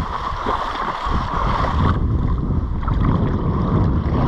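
Wind buffeting the microphone, a loud uneven rumble, over the steady wash of surf on the beach.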